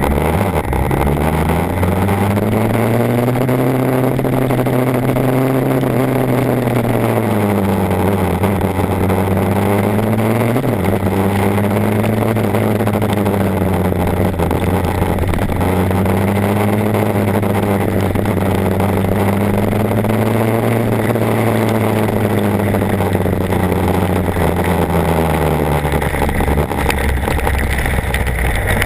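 BMW HP4's inline-four engine running under way, its pitch rising, holding and easing off in slow swells several times, with a steady rushing noise behind it.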